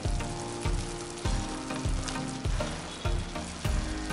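Spiced onion-tomato and yogurt gravy sizzling and bubbling in a wok as pieces of bajra roti are tipped into it, with background music keeping a steady beat.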